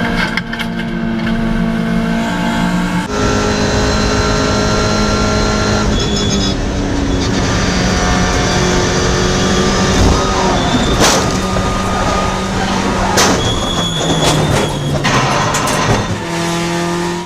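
Race car engines running at speed, with abrupt changes in the engine note as one clip gives way to another. A few sharp bangs come around the middle.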